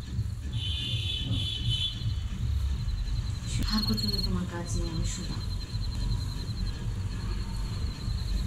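Crickets chirping in a steady, fast high trill over a low background rumble. A short, falling voice sound comes about four seconds in.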